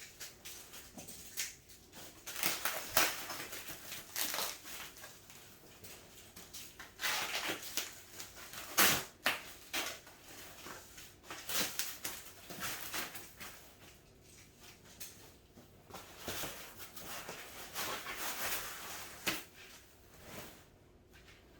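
Packaging material being pulled off and handled, rustling and crackling in irregular bursts, with one sharp crack a little before halfway.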